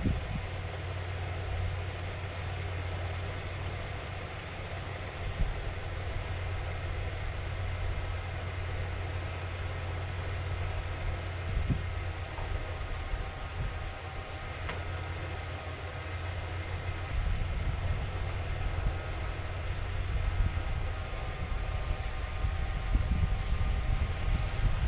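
An engine running steadily: a low rumble with faint steady whining tones above it, growing somewhat louder over the last several seconds.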